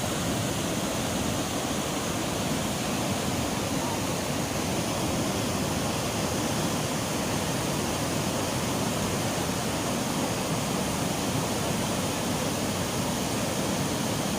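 Chitrakote Falls on the Indravati River in full monsoon flow: the steady roar of a large mass of water falling onto rocks, an even rushing noise that does not change.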